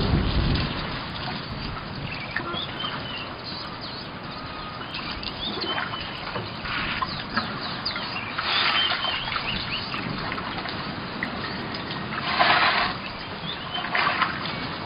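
Small birds chirping around a waterhole, short scattered calls throughout, with a few brief rushes of noise, the loudest about twelve seconds in.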